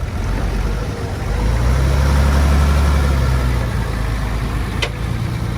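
Heavy-equipment diesel engine running, swelling louder for about two seconds in the middle as it takes load, then settling back. A single short sharp click comes near the end.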